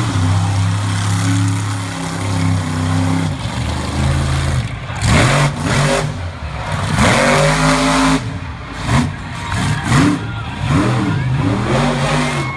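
Monster truck engine running loud and steady, then revved in a series of quick throttle blips that rise and fall sharply in pitch from about four seconds in.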